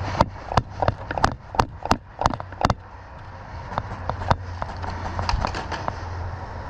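A quick, regular series of about eight sharp clicks, roughly three a second, over the first few seconds, then a few scattered ticks over a steady low hum.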